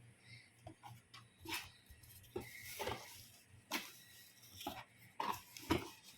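Irregular clicks, knocks and rustles of an electric kettle and its parts being handled, about a dozen short sounds, the loudest near the end.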